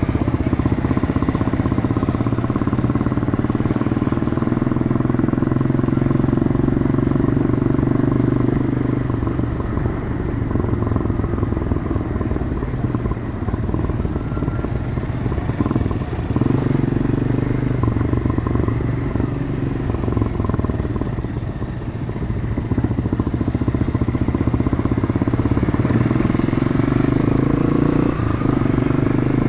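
Demak DTM 150 motorcycle engine through its stock exhaust, running under way in traffic. Its pitch rises and falls several times as the bike accelerates and eases off.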